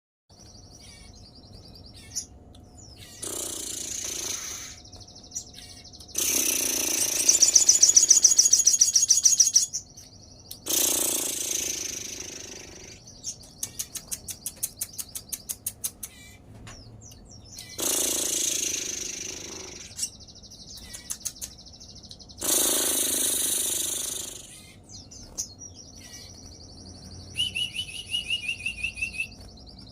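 A caged sogon sunbird singing hard in breeding condition: high thin twittering and fast trills, broken by several loud harsh rasping bursts of a second or more.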